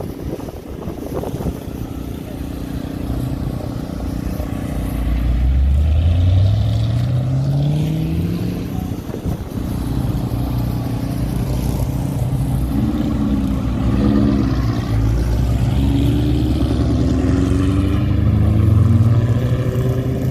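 Hot rod car engines running and pulling away, the engine pitch rising as one car accelerates about five seconds in and another climbs again in the second half.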